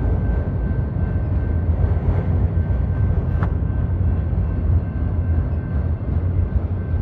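Union Pacific manifest freight train's autorack cars rolling past, a steady heavy rumble of steel wheels on the rails. A single sharp click rings out about three and a half seconds in.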